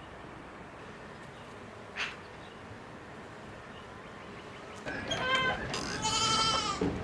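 Farm animal calls: a short call just before five seconds in, then a longer wavering call near the end, over a quiet background. A single brief chirp sounds about two seconds in.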